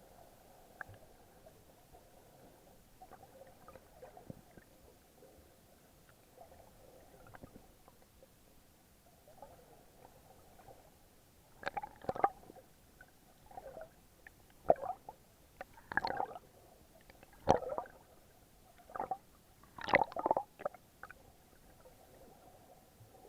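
Muffled water gurgling and sloshing, picked up through a waterproof action-camera housing while snorkeling: faint for the first half, then about eight short gurgling bursts in the second half.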